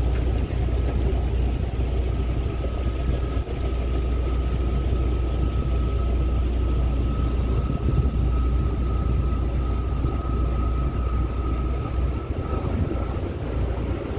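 A large motor boat's engines running steadily at low speed while it manoeuvres out of its berth. There is a constant low rumble, with a steady high whine above it that cuts off near the end.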